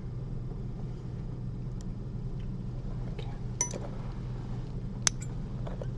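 Metal surgical instruments clicking and clinking a few times during suturing, the sharpest click about five seconds in, over a steady low hum.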